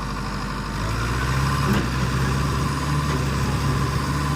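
Tractor diesel engine running steadily. About a second in it picks up to higher revs and holds there.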